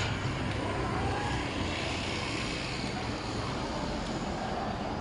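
Street traffic noise: a passing vehicle's engine fades away at the start, leaving a steady hum of street noise.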